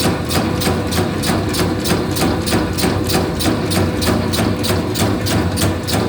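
Bakso meatball-forming machine running, its motor humming steadily under a regular clack about four times a second.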